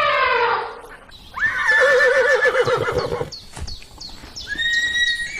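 An animal's loud calls: one call falling away at the start, then a long call with a quivering, wavering pitch, a few sharp clicks, and another call starting near the end.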